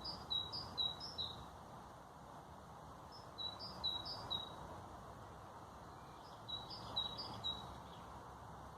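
A songbird singing three short phrases about three seconds apart, each a quick run of paired high notes repeated three or four times, over a steady background hiss of ambient noise.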